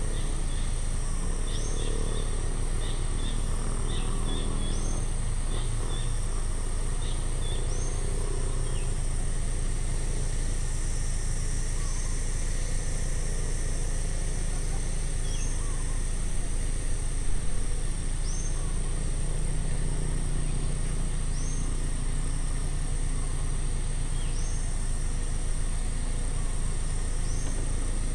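Outdoor ambience: a steady high-pitched insect drone, with a bird repeating a short rising call every three seconds or so. Other birds chirp in the first several seconds. All of this sits over a steady low rumble.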